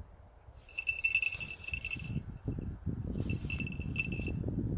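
A falconry bell on a northern goshawk jingling in two bursts of about a second and a half as the bird digs in snow, over the low scuffing and crunching of the snow.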